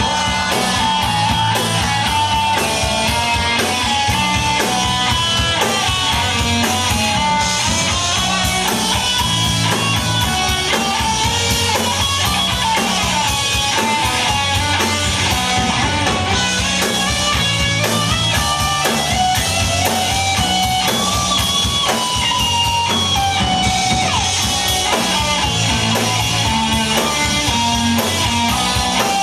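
Live rock band playing an instrumental break: electric guitars over bass and a drum kit, with a guitar melody line and no vocals.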